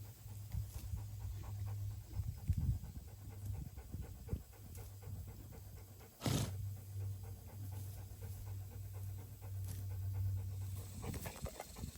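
A dog panting, over a steady low hum that drops out briefly about halfway through and stops near the end. A single sharp thump about halfway through is the loudest sound.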